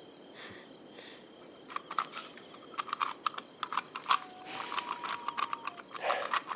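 Crickets chirping in a steady, evenly pulsing high trill, with scattered light clicks and taps over it.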